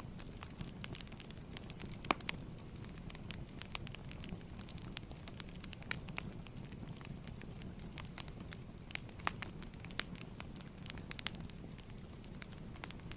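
Wood fire crackling steadily in a fireplace, with irregular snaps and a few louder pops over a low rumble of flames.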